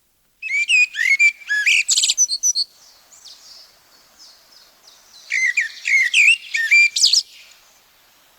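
Common blackbird singing: two phrases of low, fluty, warbling notes, each ending in a high, squeaky twitter, with a pause of a couple of seconds between them.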